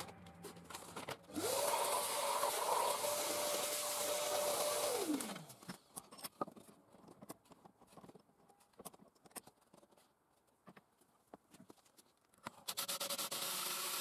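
A small electric motor spinning up quickly to a steady whine with a hiss, running about four seconds, then winding down. Scattered clicks follow, and a similar whir starts again near the end.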